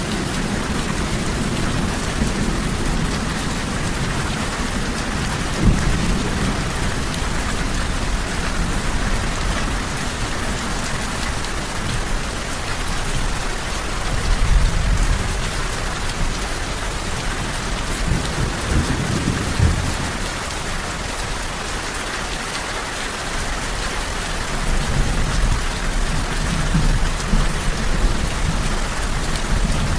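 Steady heavy rain falling, with low rolls of distant thunder swelling up now and then.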